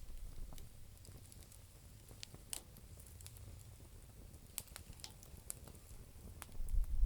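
Campfire of damp firewood crackling, with scattered sharp pops and snaps over a low rumble that grows louder near the end.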